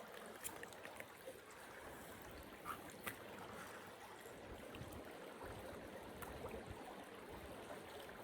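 Small creek's water running steadily and faintly, with a few light clicks in the first three seconds.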